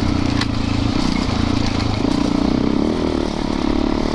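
Dirt bike's single-cylinder four-stroke engine running at a steady trail pace, with one sharp click about half a second in.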